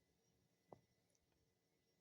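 Near silence: quiet room tone, with one faint short tap or click about three-quarters of a second in.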